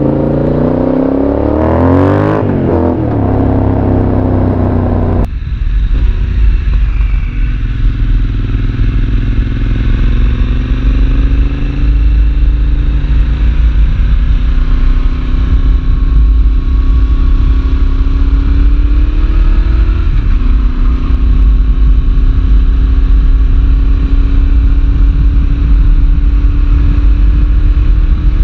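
Yamaha Tracer 7's 689 cc parallel-twin engine through a full GPR aftermarket exhaust with dB-killer, revving hard and climbing in pitch under acceleration at first. About five seconds in, a heavy low rush of wind noise comes in over the engine, which keeps pulling up through the revs in long, steady rises.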